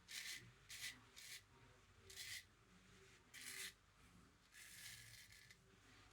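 A razor scraping through lather and stubble in short strokes: about five quick rasping strokes in the first four seconds, then one longer stroke near the end.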